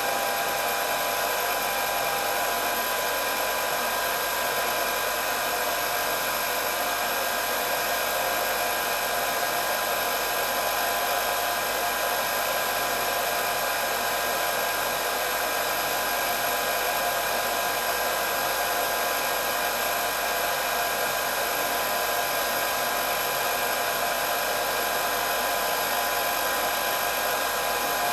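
Hair dryer running continuously: a steady blowing hiss from the fan with a constant motor whine.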